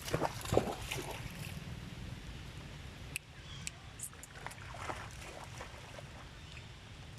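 Water splashing and sloshing, loudest in the first second, then dripping water with scattered small taps and clicks.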